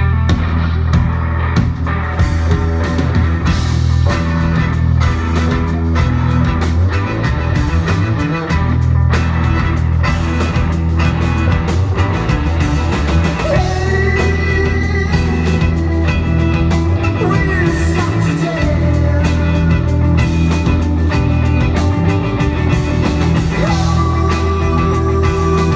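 Live psychedelic rock band playing, with guitars, drum kit and a heavy, steady bass. From about halfway, held high notes with slides come in over the top.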